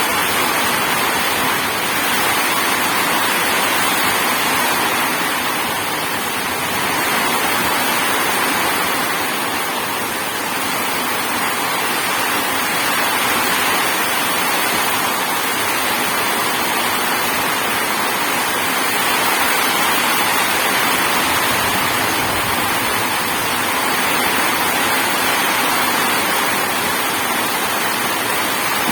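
Heavy rain falling steadily, a dense hiss that swells and eases gently over several seconds.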